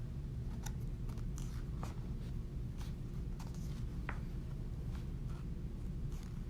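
Steady low hum inside the cab of a 2021 Ford F-150, with light scattered clicks and taps.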